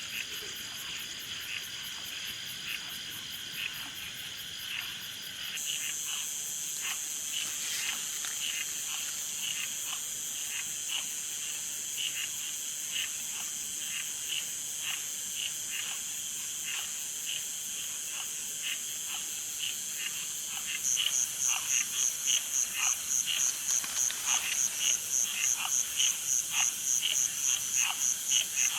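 Frogs calling over and over, about one to two calls a second, over a continuous high insect drone. About two-thirds of the way in, a fast pulsing insect trill joins and the chorus gets louder.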